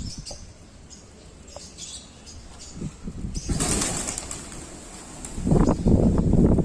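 Pigeons' wings flapping as birds take off: a whooshing rush about three and a half seconds in, then a louder run of rapid wingbeats near the end.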